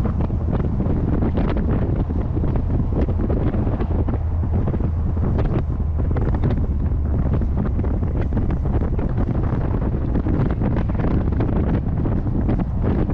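Heavy wind buffeting the microphone of a C3 Corvette on the move, a steady dense rush with a constant low rumble underneath.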